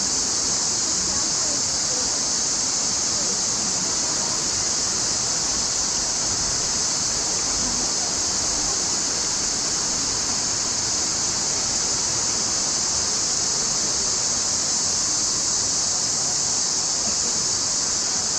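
Mountain creek rushing steadily over rocks, an even unbroken wash of water noise with a steady high-pitched hiss over it.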